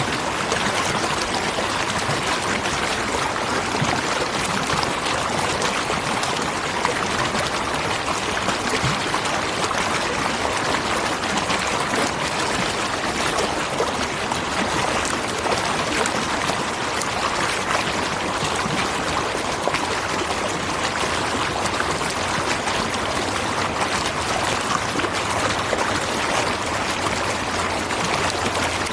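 Waterfall: water pouring and splashing in a steady, dense rush that does not change.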